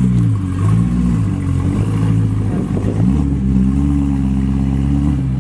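A car engine running at low revs, its pitch dipping and rising briefly near the start, then climbing a little about three seconds in and holding there.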